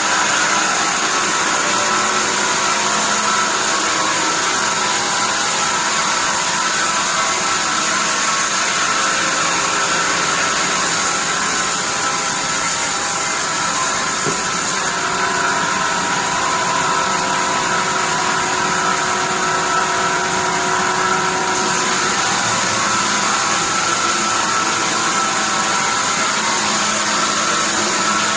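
Sawmill band saw machine running steadily, a loud mechanical noise with several held tones and a high hiss that dims for a few seconds past the middle.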